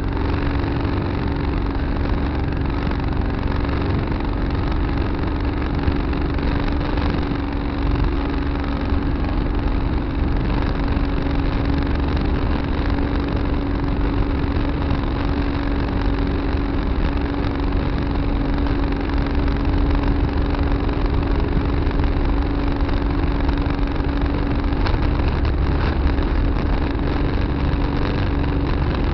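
Tractor engine running steadily, an even low rumble with a constant hum.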